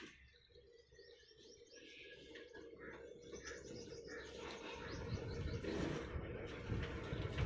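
Small birds chirping, with a low, uneven rumble that comes in about two-thirds of the way through and grows louder.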